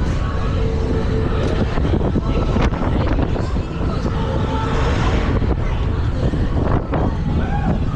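Fairground ride running with riders on board: a steady heavy rumble of the ride's motion with wind buffeting the microphone.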